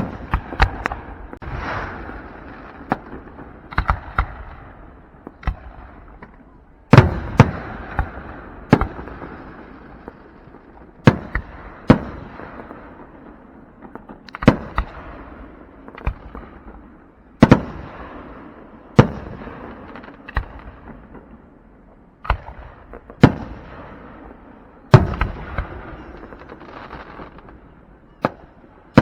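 Aerial fireworks bursting one after another, each sharp boom every one to three seconds followed by a fading crackle and rolling echo.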